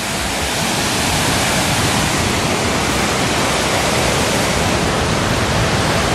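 Waterfall heard up close: a loud, steady rush of falling water, swelling slightly in the first second and then holding even.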